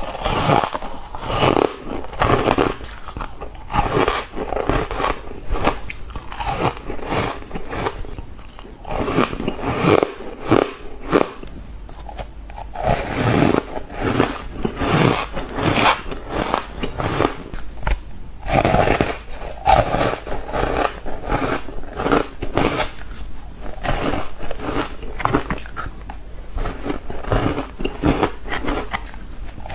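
Close-miked biting and chewing of ice, with a dense, irregular run of loud crunches and crackles as the pieces are bitten and ground between the teeth.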